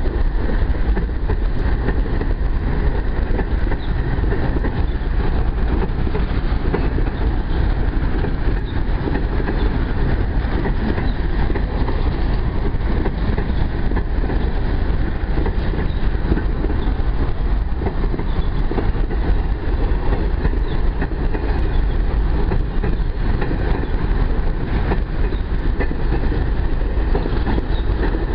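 Long empty freight train of covered boxcars rolling past close by: a steady, unbroken rumble of steel wheels on the rails.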